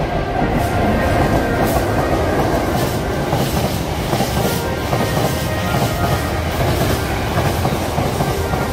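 Container freight train running through close by: a loud, steady rumble of the wagons with a repeated clatter of wheels over the track.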